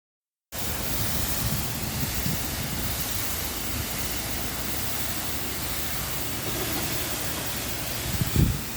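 Car wash water jets spraying, a loud steady hiss that starts suddenly about half a second in, with low thuds and buffeting on the microphone near the end.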